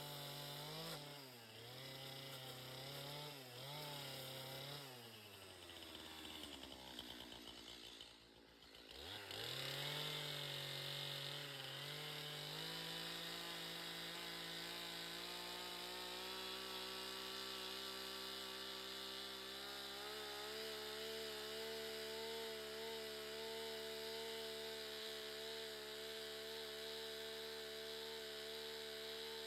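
Two-stroke chainsaw cutting wood. The engine pitch sags several times in the first eight seconds as the chain bites under load. About eight seconds in it dips almost to nothing, then picks back up and runs at a steady high speed for the rest of the time.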